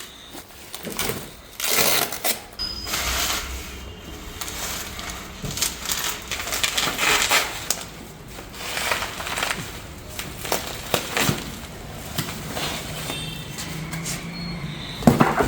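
Heavy packaging being torn and wrestled open by hand: irregular crinkling, ripping and scraping with a few knocks as the box and wrapping are pulled apart.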